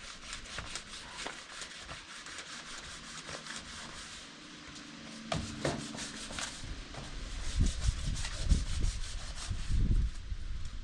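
Sandpaper rubbing in quick repeated strokes. Low thumps come in from about two-thirds of the way through and grow louder.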